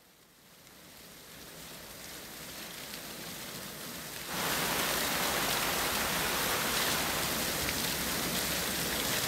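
Fountain water spraying and splashing down, a steady hiss that fades in from silence, grows louder, and steps up suddenly about four seconds in.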